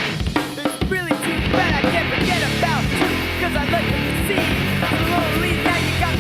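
Hardcore punk band playing with distorted guitar, bass and drum kit. In the first second the low end drops back under a run of drum hits, then the full band comes back in, the guitar bending notes.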